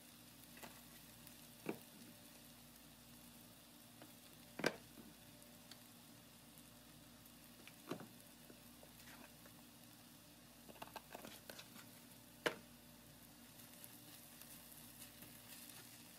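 Faint, steady sizzle of shredded chicken and vegetables frying in a steel pan, with a few sharp clicks and taps scattered through. The loudest taps come about five seconds in and again about twelve seconds in.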